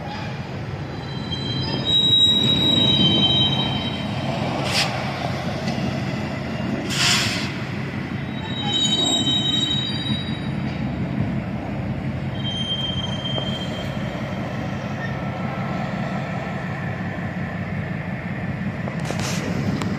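Train rolling past with a steady low rumble, its wheels squealing in thin high tones several times, with a few sharp metallic clanks.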